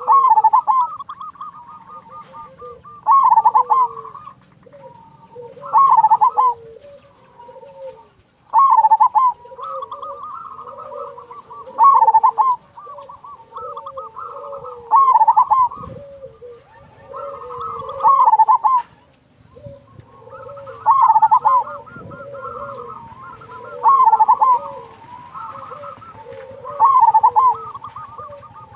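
Zebra doves (perkutut) cooing: a loud phrase of quick cooing notes repeats about every three seconds, about ten times, with softer, lower cooing between the phrases.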